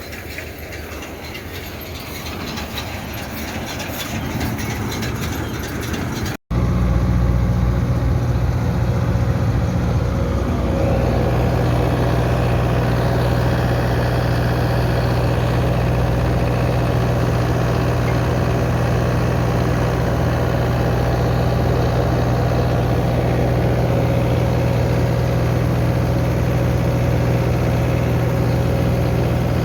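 Farm machinery at work for haylage baling: a building, rattling mechanical noise, then after an abrupt cut about six seconds in a tractor engine running at steady speed with a constant low drone, which fills out slightly around ten seconds in.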